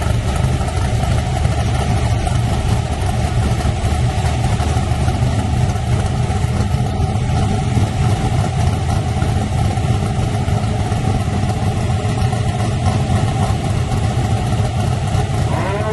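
Drag-race S10 truck engine idling steadily and loudly, a dense low rumble of firing pulses with no revving.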